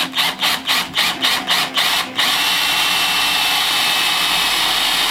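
Drill driver boring a pilot hole into a wooden block: first run in quick short bursts, about five a second, then held on steadily with a whine for the last three seconds.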